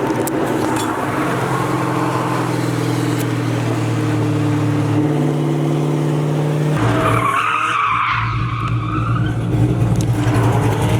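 Car engine running at a steady speed. About seven seconds in the note drops to a deeper rumble, and a wavering tyre squeal rises over it for a couple of seconds.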